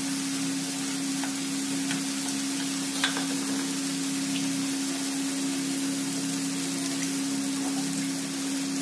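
Vegetables and scrambled egg frying in oil in a pan, a steady even sizzle, with a steady low hum underneath.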